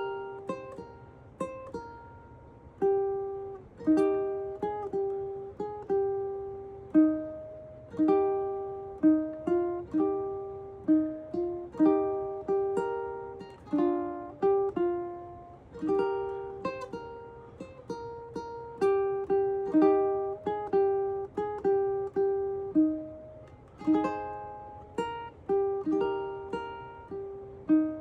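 A ukulele played solo, a plucked melody of single notes and chords, each struck and fading, at an unhurried pace.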